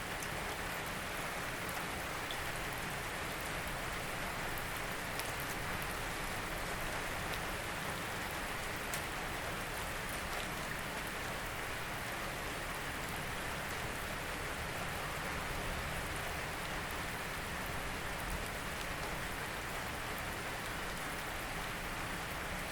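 Steady rain falling, an even patter of drops with occasional sharper drop ticks.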